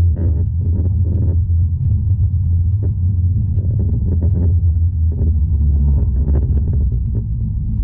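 Tram running along its line, heard from inside the car: a steady low rumble with irregular fainter rises of rail noise above it.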